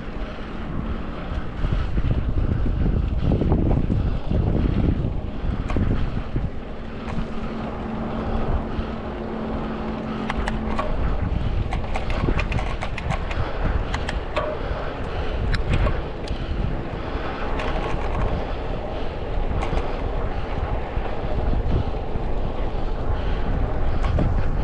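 Wind rushing over an action camera's microphone on a moving road bike, a steady low rumble, with road traffic around. A steady low hum sounds for a few seconds near the middle, followed by a run of small sharp clicks.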